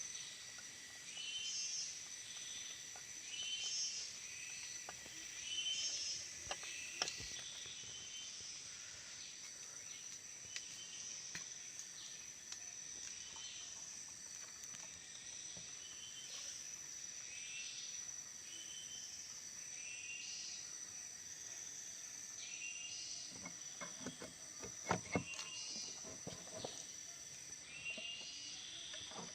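Steady high-pitched insect drone with a short chirping call repeating about once a second. A few sharp clicks and knocks come near the middle and again near the end.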